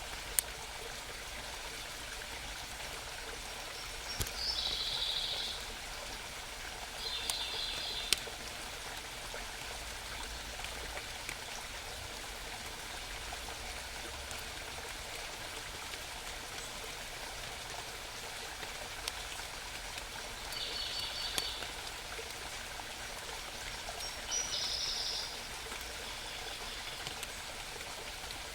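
Steady rushing of a small mountain stream, with a songbird singing four short, high trilled phrases of about a second each, two in the first third and two in the last third.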